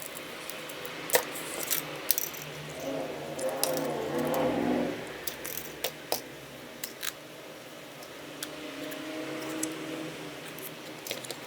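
Sharp light clicks and taps of small tools and phone parts being handled during a smartphone teardown, with a brief scraping sound about three seconds in.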